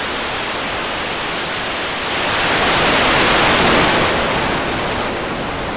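Loud, steady rushing noise from the SpaceX Starship SN10 test, swelling about two seconds in and easing back near the end.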